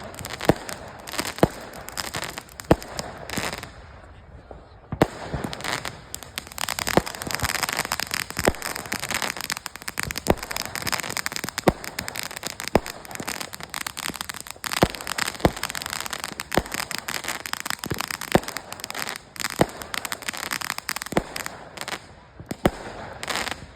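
Fireworks going off: many sharp bangs at irregular intervals over continuous crackling, with a brief lull about four seconds in.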